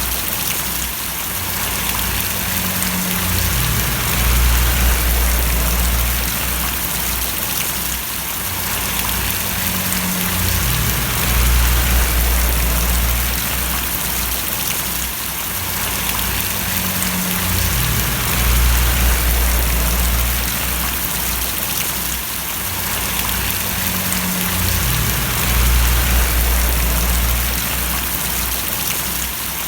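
Steady heavy rain falling and splashing, a dense even hiss. Beneath it a low rumble swells and fades in a regular cycle about every seven seconds.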